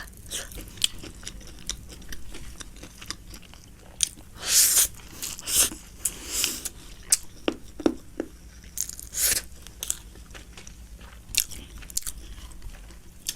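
Close-miked mouth sounds of someone chewing a mouthful of pork biryani: repeated wet smacking clicks and chewing, with several louder bursts of chewing noise.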